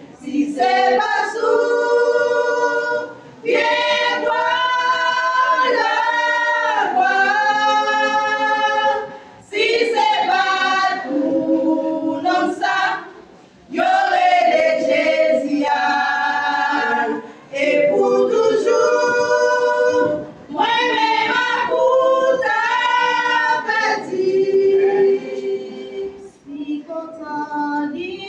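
Choir singing a Haitian Creole gospel song, in sung phrases of a few seconds each with short breaks between them.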